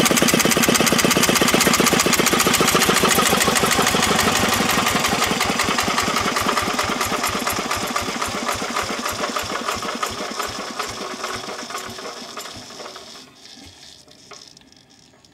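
Vintage Petter AV1 single-cylinder diesel engine chugging with evenly spaced firing beats, which slow and fade over about twelve seconds as the engine winds down to a stop.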